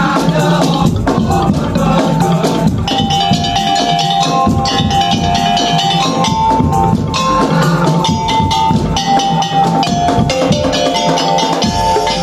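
Madurese tong-tong (ul-daul) ensemble playing: fast, dense drum and percussion strokes under a held, stepping melody line.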